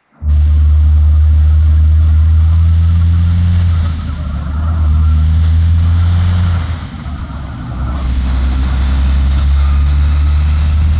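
Heavy truck's diesel engine pulling through its gears. The engine note drops twice, about four and seven seconds in, as it shifts, and a high whistle rises and falls with each shift.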